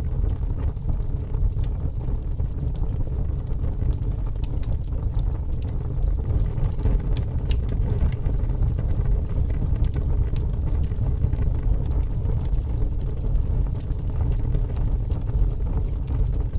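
Fire crackling steadily: a low rumble of flame with frequent small sharp crackles and pops.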